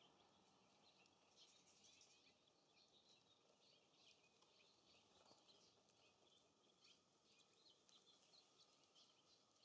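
Very faint outdoor ambience with many short, high bird chirps and twitters scattered through, over a faint low hiss.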